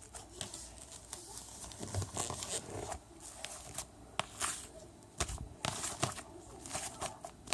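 Irregular rustling and crinkling, like something of paper or plastic being handled, with many small clicks scattered through.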